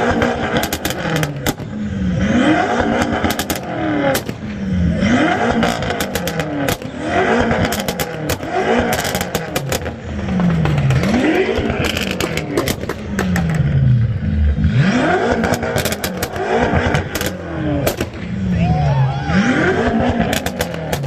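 A vehicle engine with very loud exhaust pipes being revved over and over, its pitch climbing and dropping back about every two to three seconds, with sharp crackles in the exhaust note.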